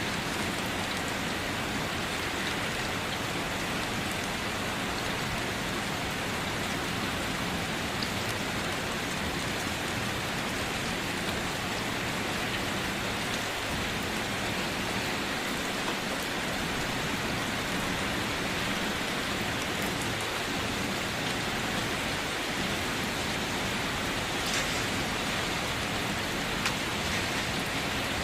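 Steady rain falling, a continuous even patter with scattered individual drop ticks and a couple of slightly sharper drops near the end.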